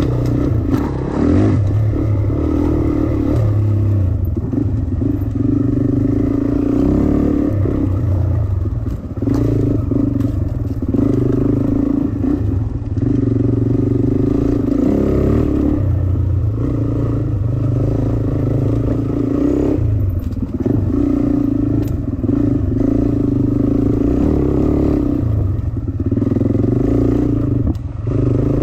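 Dirt bike engine running as the bike is ridden over a slippery trail. Its note rises and falls every few seconds as the throttle is opened and eased, with a few brief knocks from the bike.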